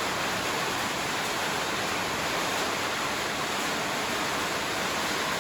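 Steady rain falling, an even hiss without breaks, heard from inside a shed.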